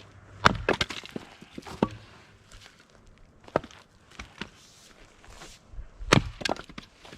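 Fiskars X27 splitting axe chopping firewood: two heavy blows, one about half a second in and one near the end, each followed by quick cracks and knocks as the wood splits and falls, with a few lighter knocks between.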